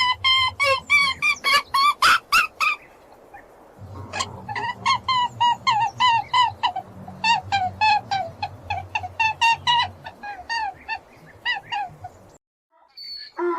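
A bird calling in fast repeated notes, about four to five a second, over background music with a low steady bass. The calls break off briefly about three seconds in and stop about a second before the end.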